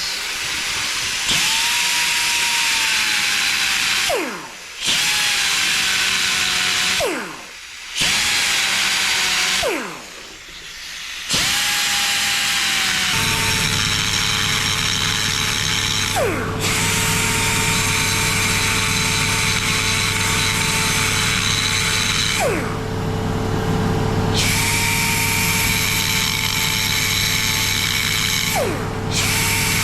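Die grinder cutting into an aluminium-alloy gearbox casing, run in repeated spells of several seconds, its high whine falling in pitch each time it is released and spins down. From about a third of the way in, a steady low hum from another machine runs underneath.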